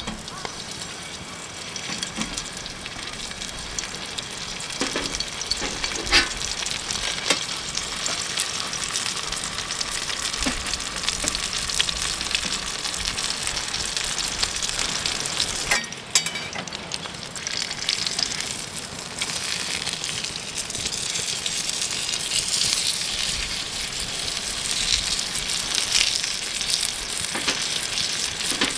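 Food sizzling and frying in a hot pan over a fire, a steady crackling hiss with scattered sharp pops and a short break about sixteen seconds in.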